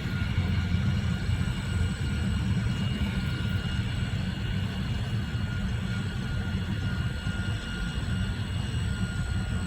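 Cellular (5G) tower equipment giving off a steady low rumbling hum with thin, high, constant whistling tones over it. This is the whistle-and-hum that neighbours complain sounds like an airfield and keeps them from sleeping.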